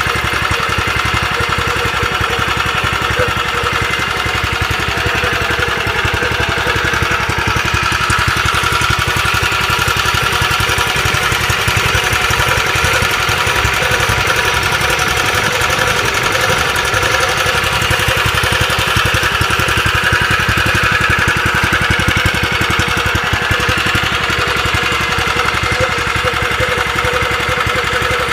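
Robin small single-cylinder engine running steadily at an even speed.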